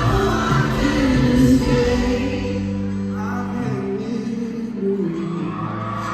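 Live pop music with a male lead vocal and band in a large hall, recorded from the audience. The deep bass drops away about halfway through, leaving held tones under the voice.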